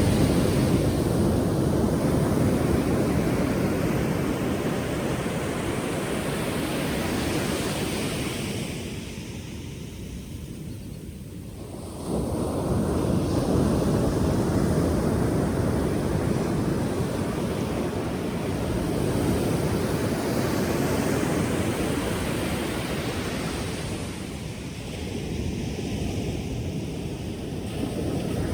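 Ocean surf: waves breaking in a continuous rushing wash. It eases off about a third of the way in, then returns suddenly as a wave crashes, and dips briefly again near the end.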